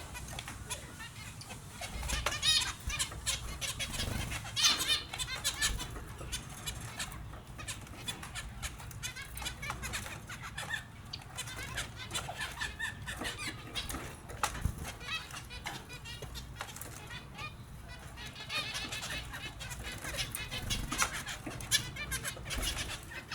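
Pet finches chirping in repeated quick bursts of high, wavering calls, with wing-flapping as they bathe.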